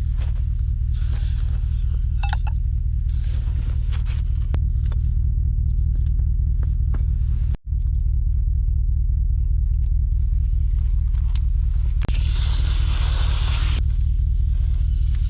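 A steady low rumble runs under everything, with a few light clinks a couple of seconds in and a brief hiss of food sizzling in a pan near the end.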